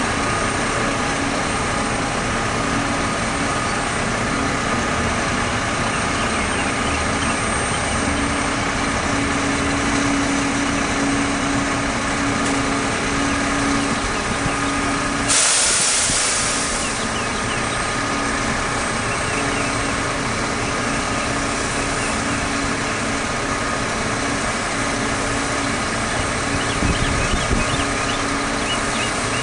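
Mack water truck's diesel engine running steadily, with a sudden loud hiss of air about halfway through that fades over a second or two.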